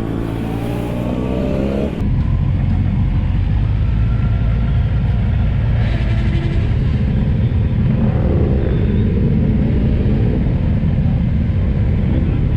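Motorcycle engine noise: an engine revs up with a rising pitch over the first two seconds, then gives way abruptly to a steady low rumble of engines and road noise.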